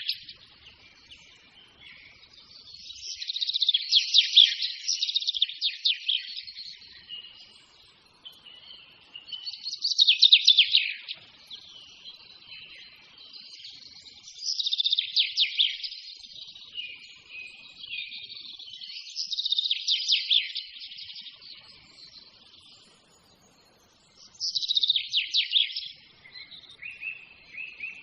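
A songbird singing: short phrases of rapid, trilled notes, one bout roughly every five seconds, with softer chirping in between.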